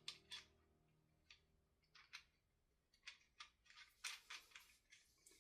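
Faint, sharp clicks and light taps of small parts being handled while a BMW S85 throttle actuator is assembled, about a dozen scattered through, with a quick cluster about four seconds in.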